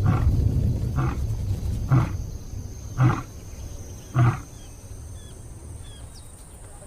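Lion roaring: a loud, low roar trails off into a series of short grunts about once a second, the last one a little over four seconds in.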